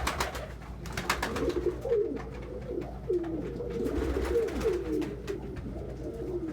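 Domestic pigeons cooing, several low warbling coos following and overlapping one another, with scattered sharp clicks and taps among them.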